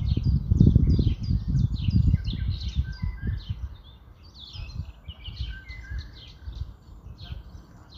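Birds chirping continuously in many short, rapid chirps. A low, uneven rumble sits under them and is loudest in the first two to three seconds before fading.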